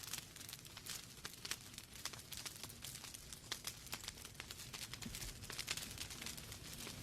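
Wood fire burning in a fireplace: logs crackling with a dense run of sharp, irregular pops and snaps over a soft hiss.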